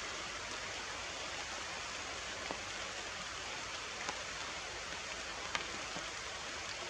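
Steady rain falling, with a few sharper drips or taps, about three in all.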